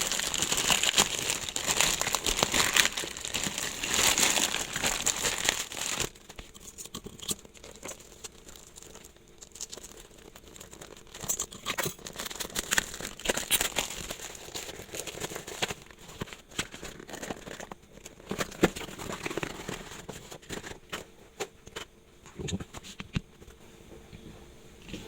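Packaging being unwrapped and crumpled by hand, loud and dense for about the first six seconds, then giving way to quieter handling with scattered clicks and taps.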